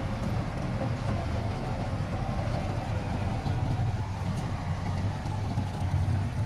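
Heavy diesel engine of earth-moving machinery running steadily: a deep, even rumble with a faint whine above it.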